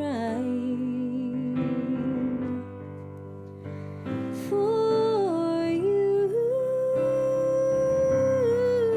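A slow ballad sung live: a voice holds long, gliding notes over a soft keyboard accompaniment. It drops quieter for about a second near the middle, then swells back.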